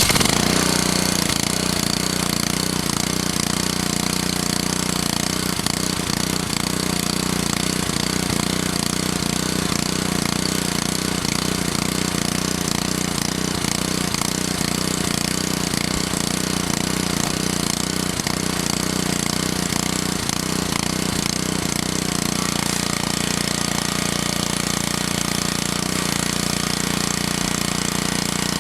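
Small gasoline engine of a pressure washer running steadily under load, with a continuous hiss of water spray over its hum. The washer is an old unit, long unused, running on stale gas.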